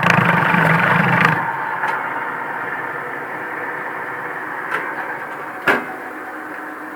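Washing machine electric motor running with a steady hum. It is loud for about the first second and a half, then quieter and slowly fading, with two sharp clicks near the end.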